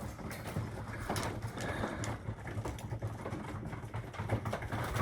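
Racing pigeons cooing in a loft, with scattered short clicks and rustling.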